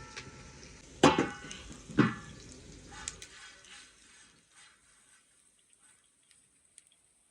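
Metal cookware and utensils clanking: two loud ringing clanks about a second apart, then lighter clinks and scrapes that fade to faint ticks.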